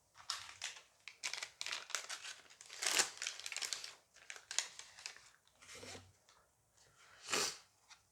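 A plastic foil booster pack being torn open and crinkled by hand, in a run of irregular crackles and rips.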